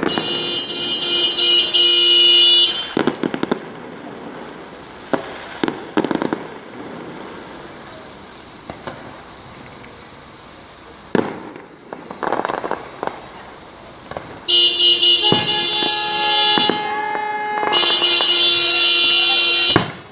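Fireworks bursting in scattered bangs, with vehicle horns honking in long, steady blasts near the start and twice in the last six seconds.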